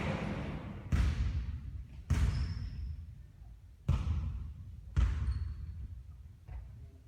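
A basketball striking hard surfaces during three-point shooting practice: five sharp impacts roughly a second apart, each with a long echoing decay, and a lighter hit near the end.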